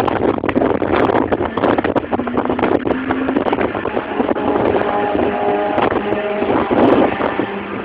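Car engines running on a race track, partly buried in heavy wind noise on the microphone; engine tones come through from about two seconds in.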